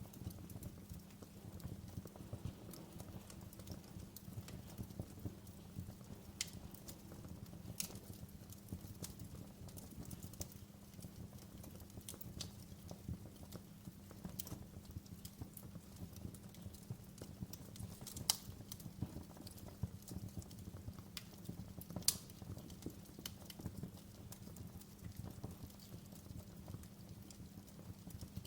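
Fireplace fire crackling: a steady low rumble of the flames under scattered sharp pops and snaps, with two louder snaps in the second half.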